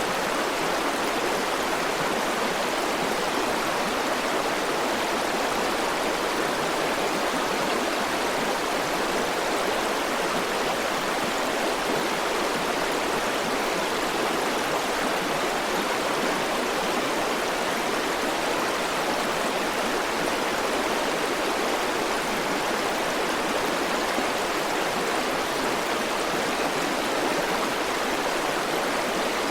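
River water flowing steadily over rocks: an even, unbroken rushing with no separate splashes or changes.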